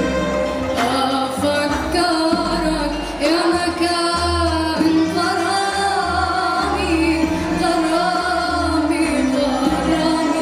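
A choir singing an Arabic song over an instrumental ensemble with a steady bass line.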